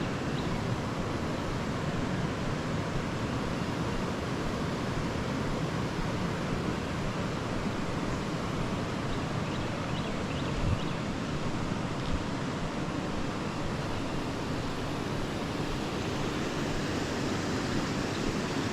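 Steady rush of creek water running over rocks, with one short low knock about eleven seconds in.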